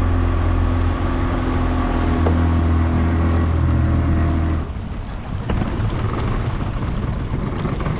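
Motorboat engine running steadily at speed while towing a tube, a strong low drone with water and wind rush. About four and a half seconds in, the steady engine note drops away, leaving a rougher rumble of wind and water.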